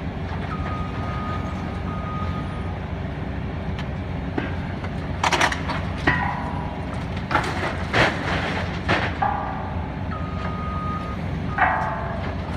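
Heavy diesel demolition machinery running steadily, with loud crashes and metallic clanks of breaking debris several times, mostly in the middle and near the end. A steady high-pitched warning tone sounds twice, near the start and near the end.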